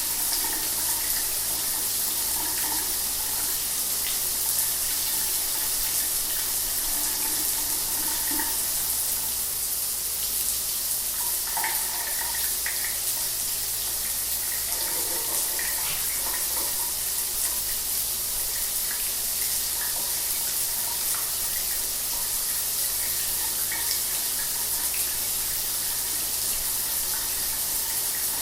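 Shower water running steadily, a constant hiss of spray with small splashes mixed in.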